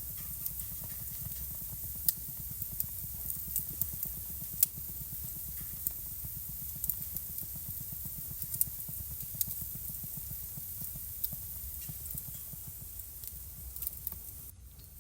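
Wood fire crackling in a fireplace: irregular sharp pops and snaps over a steady low rumble and hiss, dipping briefly just before the end.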